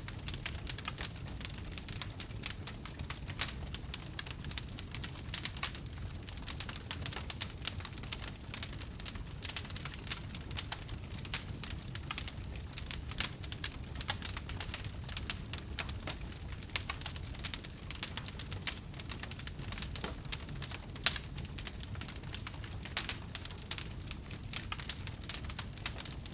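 Wood fire burning, with dense, irregular crackles and pops over a low steady rumble, and one louder pop about three-quarters of the way through.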